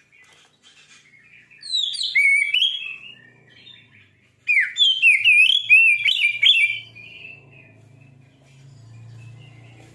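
Oriental magpie-robin (kacer) singing: two loud bursts of quick, sweeping whistled phrases, the first about two seconds in and a longer one from about halfway, with softer chattering notes between and after.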